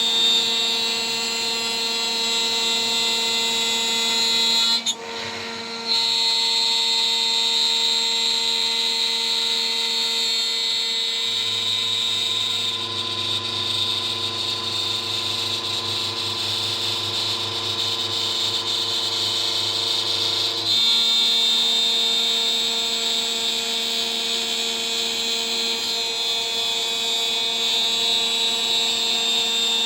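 High-speed CNC spindle whining steadily while a 3 mm end mill cuts. The sound drops out briefly about five seconds in, and a lower hum from the machine's axis drive joins from about eleven to twenty-one seconds.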